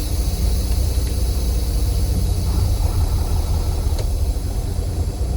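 Semi-truck diesel engine running steadily with a deep, even rumble, and a single faint click about four seconds in.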